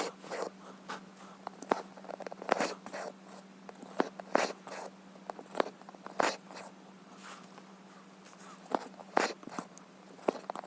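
Needle pricking through cross-stitch fabric and embroidery thread being drawn through it: irregular sharp clicks and short rasping pulls, over a faint steady hum.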